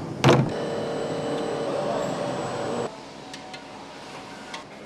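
A sharp clunk, then a machine running with a steady hum and whine for about two and a half seconds that cuts off suddenly, followed by light clicks and clatter of factory work.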